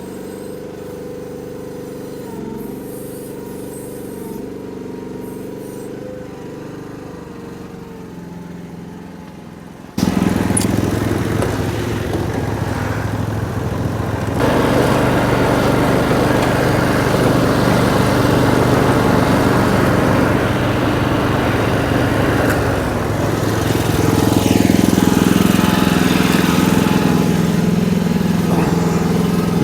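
Mini excavator's small engine running steadily, then much louder and rougher from about ten seconds in, staying loud to the end.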